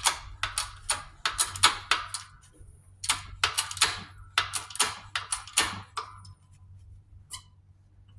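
Irregular run of sharp metallic clicks and taps, two or three a second, as metal parts and tools are worked at a shop press during a bearing press-fit. They thin out after about six seconds, with one last click near the end. A steady low hum runs underneath.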